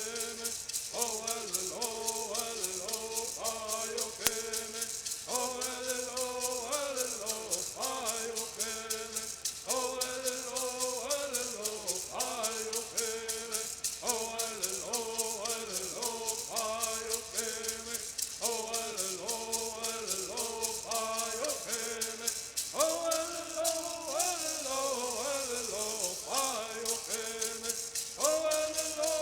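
Bird singing: voices singing phrases with held notes and falling glides, over steady, fast shaking of gourd rattles.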